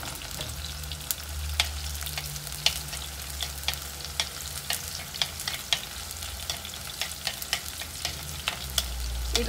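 Chopped shallots and garlic frying in hot coconut oil in a clay pot, stirred with a steel spoon: a steady sizzle with many short sharp clicks and crackles.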